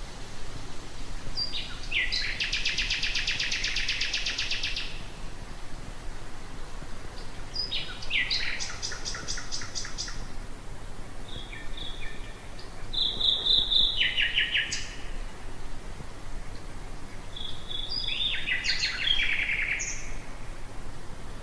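Nightingale singing: four phrases of rapidly repeated notes and short held whistles, with brief pauses between them, over a steady low background hum.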